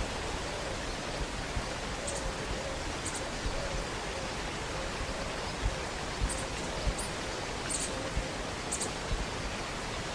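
Waterfall rushing steadily, with a few short, high bird chirps now and then.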